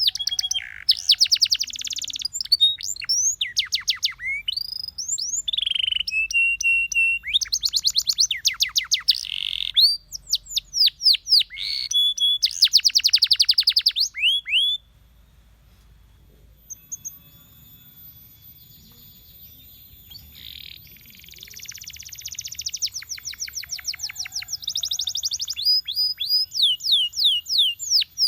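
Domestic canary singing: fast, high-pitched trills of repeated sweeping notes strung into rolling phrases. About halfway through the song drops away for a couple of seconds, then builds back into trills.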